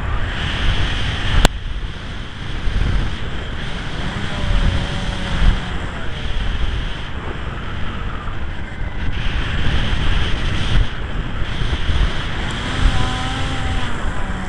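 Strong wind buffeting the microphone, with the faint whine of a radio-controlled model plane's motor rising and falling in pitch. A single sharp click about one and a half seconds in.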